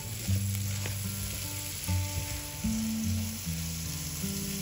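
Chopped red onion and garlic sizzling in hot oil in a frying pan while being stirred with a silicone spatula. Soft background music with low held notes plays underneath.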